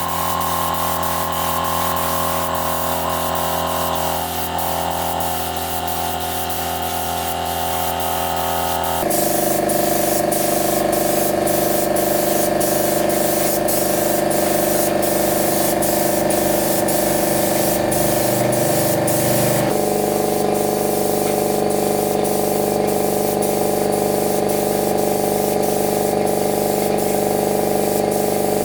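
Steady spraying hiss over a running machine hum with regular ticking. The hum's pitch shifts abruptly twice, about a third and two thirds of the way through.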